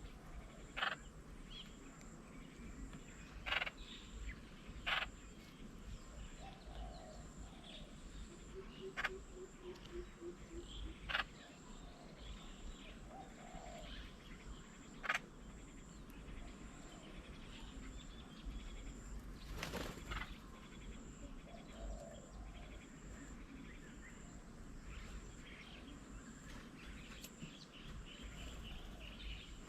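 Birds calling around a garden bird table: scattered faint chirps, with a short run of low, evenly spaced hoots about nine seconds in. Several sharp clicks or taps stand out, the loudest about two-thirds of the way through.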